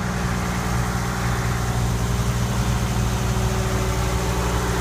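Ford Lehman 120 six-cylinder marine diesel running steadily a little above idle, on its rebuilt injection pump. The owner takes its white exhaust smoke for glazing on the cylinder walls.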